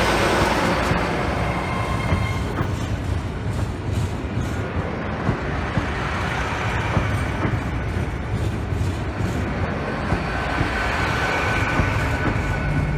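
A train running past: a continuous low rumble with scattered sharp clicks from the wheels on the track, and thin whining tones that fade and return.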